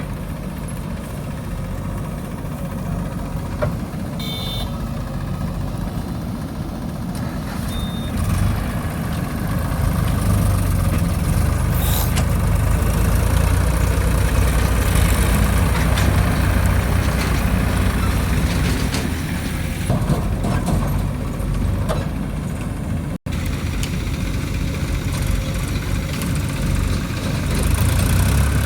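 JCB machine's diesel engine running steadily, growing louder and heavier from about eight seconds in and easing back a little near twenty seconds.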